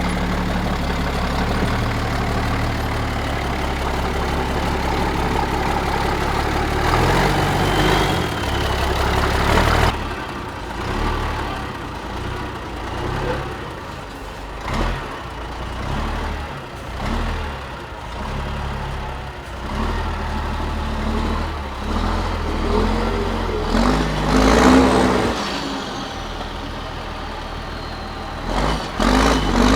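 Diesel engines of Liaz 4x4 trial trucks running and revving as they work over off-road terrain. The sound changes abruptly about ten seconds in, to a second truck whose engine rises and falls in revs several times.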